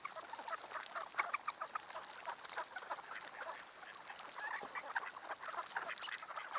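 A large flock of ducks calling all at once: a dense, continuous chatter of many short, overlapping quacks and calls.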